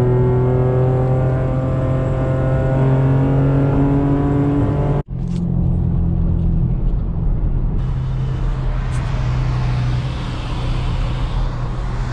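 Engine of a stock V6 2015 Chevrolet Camaro heard from inside the cabin, droning steadily with its pitch slowly rising as the car gathers speed. About five seconds in the sound breaks off for a moment, then engine and road noise carry on, turning hissier from about eight seconds.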